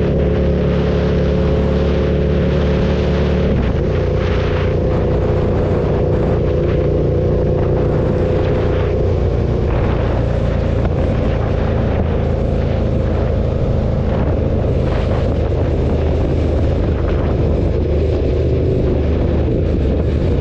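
KTM 1290 Super Duke's V-twin engine running at a steady cruise, its note shifting once about three and a half seconds in, with gusts of wind rushing over the helmet-mounted microphone.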